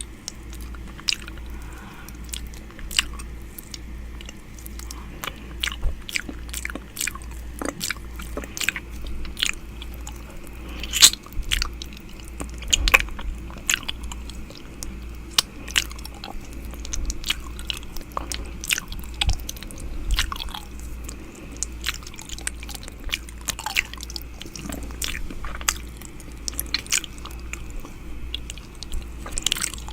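ASMR 'ear eating' mouth sounds made right at the microphone: a dense, irregular run of wet clicks, smacks and nibbling sounds. A low, pulsing hum runs underneath.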